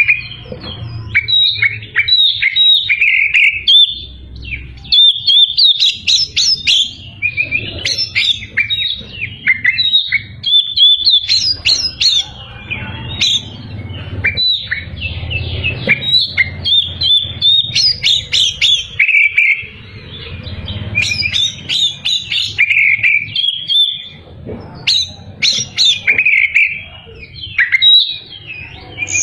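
Oriental magpie-robin (kacer) singing without pause: a loud, varied song of rapid whistles, slurred notes and chirpy trills, with a low hum underneath.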